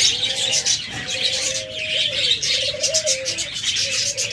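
Aviary chorus: doves cooing continuously in a low wavering tone under many small cage birds chirping and chattering.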